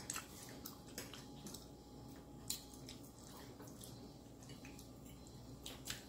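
Faint close-up eating sounds: a mouthful of soft dressing (stuffing) being chewed, with scattered small wet mouth clicks over a low steady hum.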